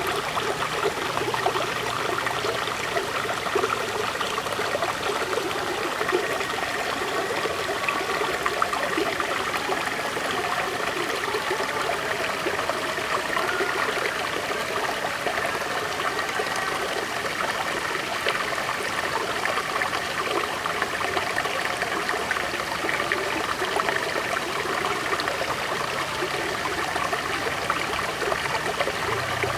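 River water flowing steadily, a continuous rushing and trickling with no pauses.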